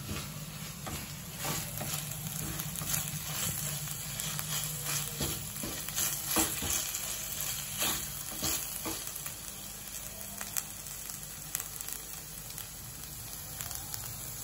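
Sliced onions, chillies and garlic sizzling in hot oil in a non-stick pan, stirred with a wooden spatula that scrapes and taps against the pan again and again. A low steady hum runs underneath.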